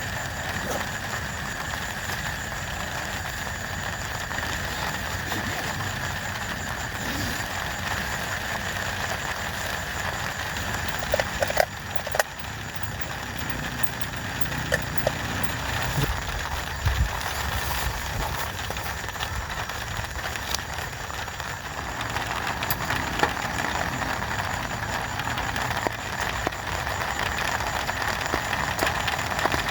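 Steady heavy rain, with a few sharp knocks about eleven to twelve seconds in.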